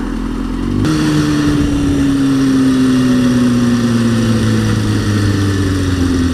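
Kawasaki ZX-6R 636 sport-bike engine heard while riding. About a second in, the engine note jumps higher and louder as the throttle opens. It then slowly drops in pitch as the revs ease off.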